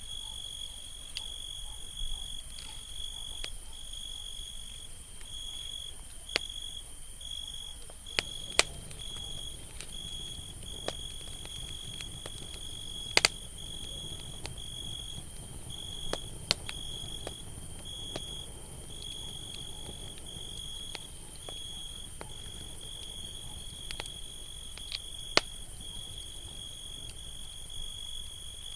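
Campfire crackling, with a soft low rumble and about eight sharp pops scattered through, the loudest about a third of the way in, near the middle and near the end. Behind it, a steady high chirping of night insects, like crickets, pulses without a break.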